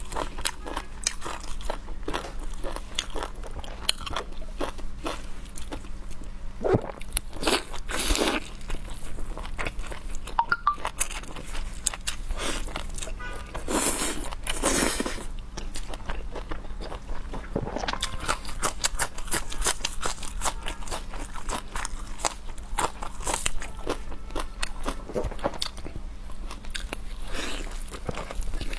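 A person biting and chewing crunchy food close to the microphone: a steady stream of crackling crunches and wet chewing, with heavier bites about a third and halfway through.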